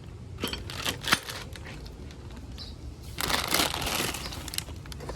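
Coilover kit packaging being handled: three sharp knocks in the first second or so, then about a second of crinkling and rustling wrapping.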